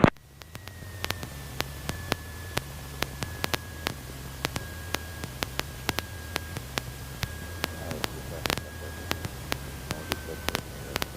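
Cockpit intercom noise in a Cessna 150/152: a steady hiss and low hum, a faint high whine that slowly drifts lower, and irregular clicks of electrical interference.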